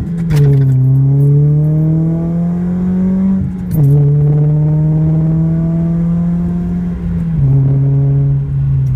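2006 Nissan Sentra Spec V's 2.5-litre four-cylinder, fitted with an XS header, midpipe and SRS cat-back exhaust, pulling warm under load. The exhaust note climbs steadily in pitch, drops suddenly at gear changes about three and a half and seven and a half seconds in, and climbs again after each.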